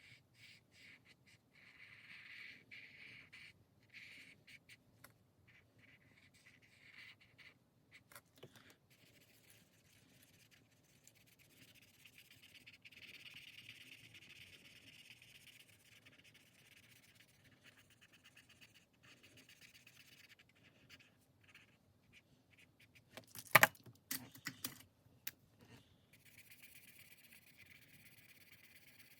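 Faint pen scratching on paper in stop-start strokes, with a sharp tap on the table about 23 seconds in followed by a couple of lighter taps.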